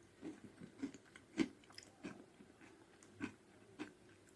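Crunchy filled ragi (finger millet) cereal bites being chewed: a string of faint, irregular crunches, the sharpest about a second and a half in.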